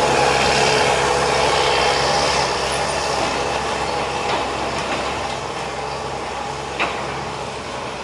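Heavy truck engine running with a steady low hum under road noise, slowly getting quieter as it moves off; a short sharp knock near the end.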